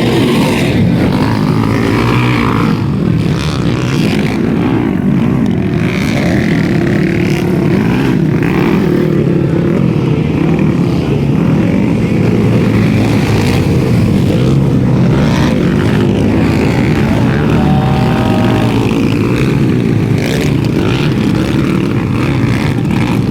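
Underbone motorcycles racing on a dirt motocross track, several small single-cylinder engines revving up and down and overlapping at close range.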